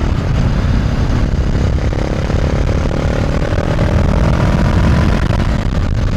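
Honda CB500F's parallel-twin engine with an SC Project Conic titanium end silencer, running steadily under way, its pitch rising slowly in the middle as the bike gathers speed. Wind noise rushes over the microphone.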